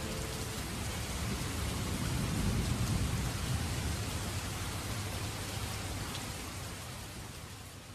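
Steady rain falling, with a low rumble swelling a couple of seconds in; the whole fades out near the end.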